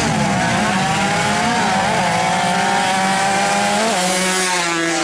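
Drag-tuned Yamaha Jupiter MX motorcycle engine running hard at high revs. It gives a loud, steady, buzzing note with small wobbles in pitch.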